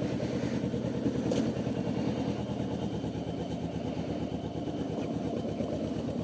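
2011 Kawasaki Ninja 650R's parallel-twin engine running steadily at low revs, with an even, fast pulse and no revving up or down.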